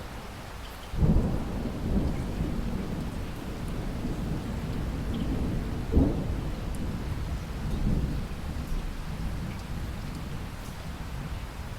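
Thunder rolling over steady rain: a sudden low clap about a second in, a second sharp crack around the middle, and rumbling that slowly fades toward the end.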